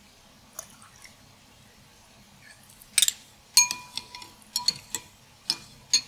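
A metal spoon clinking against a bowl while stirring Vietnamese dipping fish sauce (nước mắm): a faint tap early, then a quick run of sharp clinks in the second half, a few of them ringing briefly.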